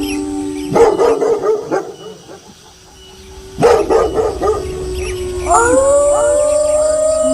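Wolves howling with dogs barking. Held howls break off a little under a second in for a burst of barking, and a second burst of barks comes about three and a half seconds in. Near the end several howls rise together and hold in a chorus.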